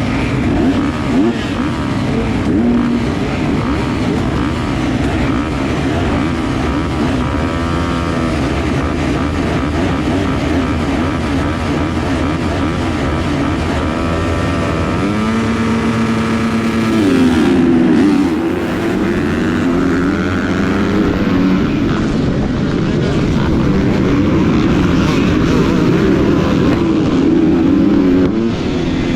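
250-class motocross bike engine running hard throughout, its revs climbing and dropping through the gears, with more engine noise from other bikes on the track.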